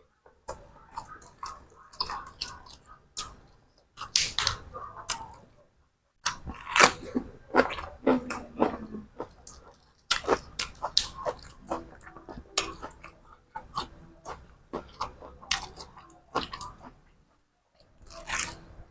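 A person chewing and crunching food close to the microphone, crisp crackling bites in clusters with short pauses between them.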